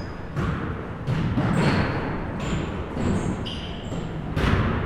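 Basketballs bouncing on a hardwood gym floor, about half a dozen thuds, the strongest near the end, with short high sneaker squeaks between them.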